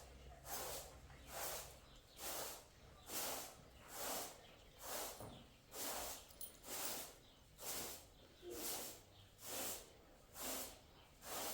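Heavy, rhythmic breathing close to the microphone: hissing breaths of about one a second, steady throughout.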